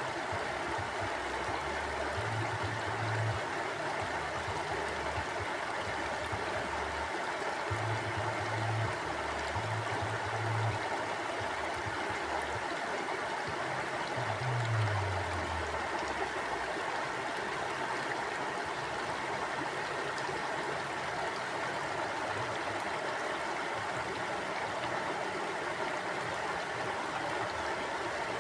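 Mountain river flowing, a steady rush of water over rocks. Under it, a low rumble runs through the first half and falls away in pitch about fifteen seconds in.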